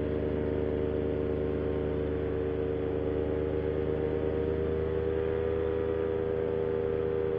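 Moster 185 single-cylinder two-stroke paramotor engine running steadily in flight, driving a propeller whose in-flight repair has failed; the prop is sounding terrible. The engine note holds steady, with a slight dip and recovery in pitch about five seconds in.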